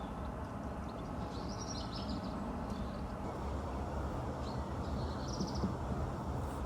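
Steady low rumble of background noise, with two brief bursts of rapid high chirping about one and a half and four and a half seconds in.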